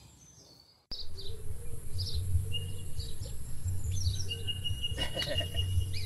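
Outdoor pasture ambience: birds chirping in short high calls about once a second, with a thin, steady high whistle held for a second or two at a time. Under them runs an uneven low rumble.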